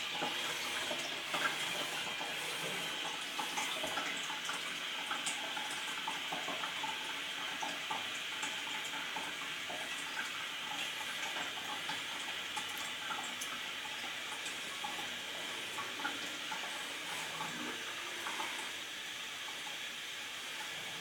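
Water running and trickling steadily in a bowl toilet. It eases slightly near the end.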